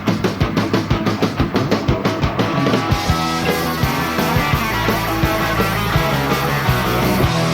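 Live rock band of electric guitars, bass and drums playing without vocals. A strong, even beat runs for about the first three seconds, then a fuller, more sustained guitar passage takes over.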